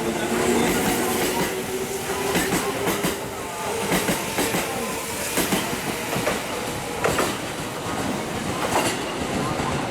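A Kintetsu electric train running through the station, its wheels clacking over the rail joints at irregular intervals over a steady rumble, with a hum that fades after the first few seconds.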